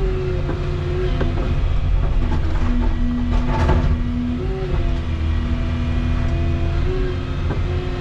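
Volvo 235EL excavator working, its diesel engine running steadily under a hydraulic whine that steps up and down in pitch as the controls are moved. Scattered knocks run through it.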